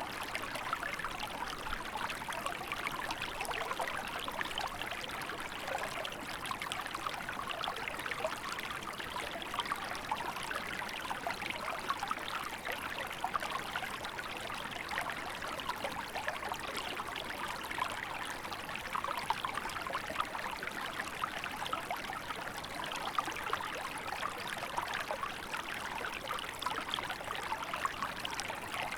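A small river flowing and babbling steadily over rocks, in winter.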